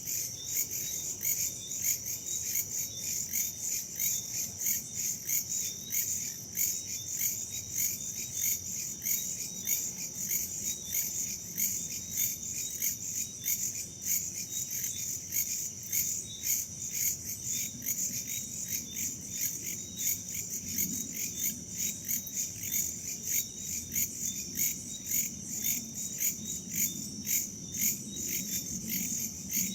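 Crickets and other insects chirping in a fast, even rhythm over a steady high trill, with faint low wind noise underneath that swells a little in the second half.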